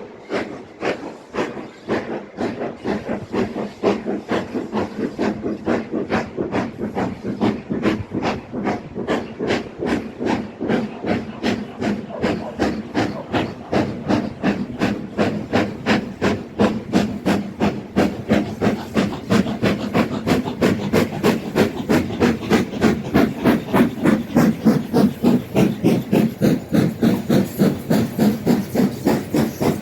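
Black 5 steam locomotive No 45212 working under load, its two-cylinder exhaust chuffing in a steady beat. The beat quickens from about three to about four chuffs a second and grows louder as the engine picks up speed.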